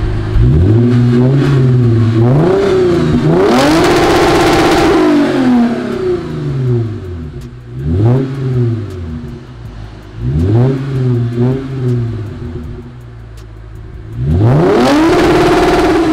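Lexus IS350's V6 through a JAS Racing muffler-delete exhaust, revved in a string of blips from idle, each rise falling back to idle. The longest, highest revs come about four seconds in and again near the end, with two quick blips close together in the middle.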